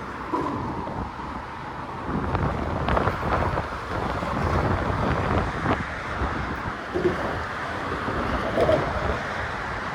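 Gusting wind buffeting a phone microphone partly covered by a sock: a muffled, uneven rush that swells and falls, heaviest in the low end.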